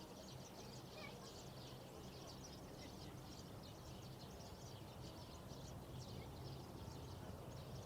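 Faint outdoor ambience: many small birds chirping continuously over a low steady hum.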